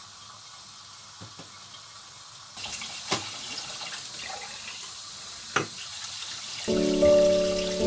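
A water tap turned on, running steadily into a sink, with a couple of sharp clinks. Background music comes in near the end.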